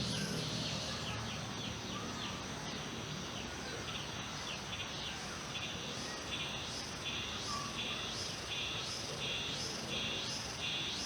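Insects chirping steadily in a high band, first in quick trills and then in a regular pulsing of about two chirps a second, with a few faint bird calls underneath.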